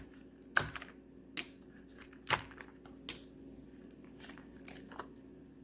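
Plastic packaging around wax melts being handled: a few separate sharp crinkles and snaps, about a second apart.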